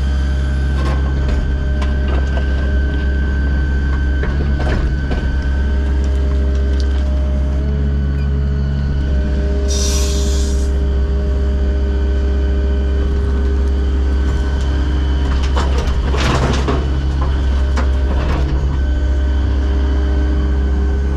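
Diesel engine of heavy earthmoving equipment running steadily under work, with scattered clanks and knocks, a brief hiss about ten seconds in and a louder clatter around sixteen seconds.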